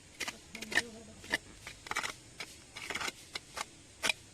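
Hand weeding with a small hand tool: irregular short scraping and chopping strokes in soil and gravel, about a dozen in four seconds.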